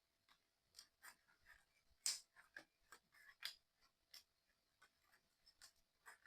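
Faint, irregular small clicks and rubbing of puzzle-kit pieces being handled and fitted together by hand. The two sharpest clicks come about two and three and a half seconds in.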